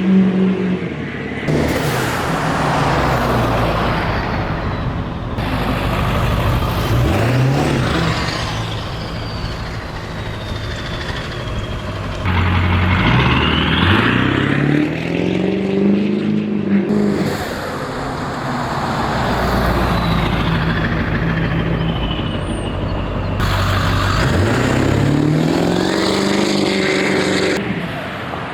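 Ford 7.3L Power Stroke V8 turbo-diesel with a straight-pipe exhaust, revved several times from idle, each rev rising then falling back. A high turbo whistle drops in pitch as the turbo spools down after the revs.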